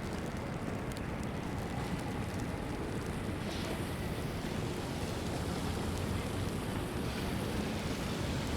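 Steady city street noise: a low rumble of traffic with wind.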